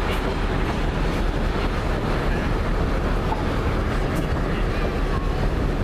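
Steady rumble of a moving train heard from an open car, with wind on the microphone.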